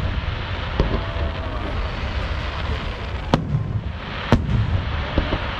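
Fireworks going off in the sky, with several sharp bangs, the loudest two about three and four seconds in, over steady background noise.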